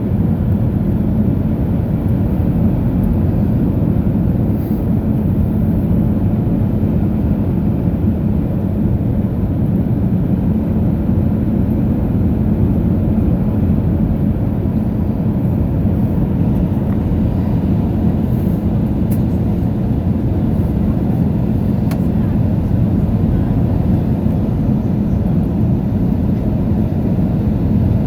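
Steady cabin noise inside an Airbus A319 airliner: a constant low roar of engines and airflow with a steady drone under it.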